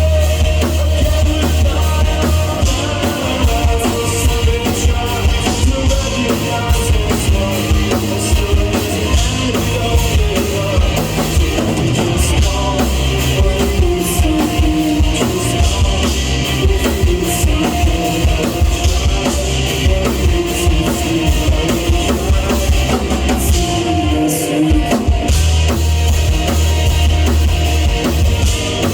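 A rock band playing live: drum kit, bass and guitars, with a voice singing over them.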